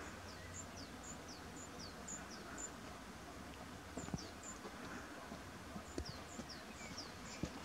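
A small bird calling: runs of high, thin notes that each slide downward, about two a second, over a faint steady outdoor hiss, with a few soft knocks in the second half.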